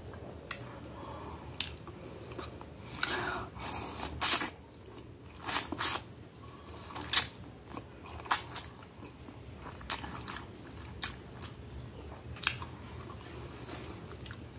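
Close mouth sounds of someone eating spaghetti in tomato sauce: wet chewing with irregular sharp lip smacks and clicks, a second or so apart.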